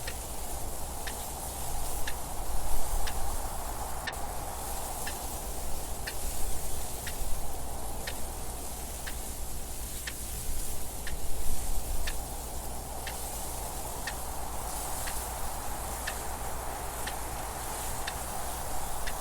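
Clock ticking steadily, about one tick a second, over a steady wind noise that swells and eases every few seconds.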